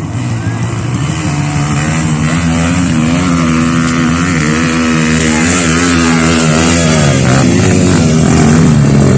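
Trail motorcycle engine running under throttle, its pitch wavering up and down and getting a little louder toward the end.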